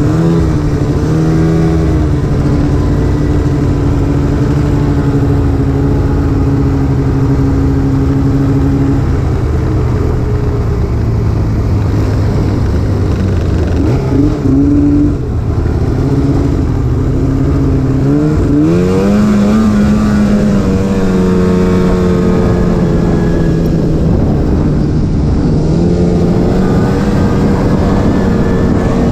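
Snowmobile engine running under way at a steady pitch, dipping briefly about halfway through, then climbing as the throttle opens and settling at a higher pitch.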